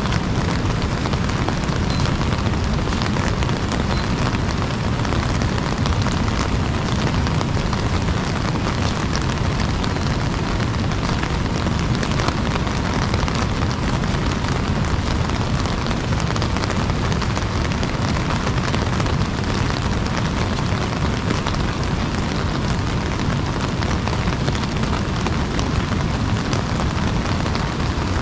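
Heavy rain falling on an umbrella overhead: a dense, steady hiss of countless small drop taps over a steady low rumble.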